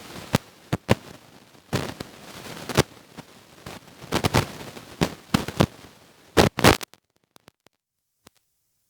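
A series of sharp, irregular crackles and snaps, close by, that stop abruptly about seven seconds in.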